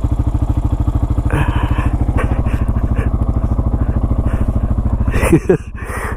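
Honda Foreman ATV's single-cylinder four-stroke engine running steadily with an even beat. About five seconds in it briefly dips in level and pitch, then picks up again.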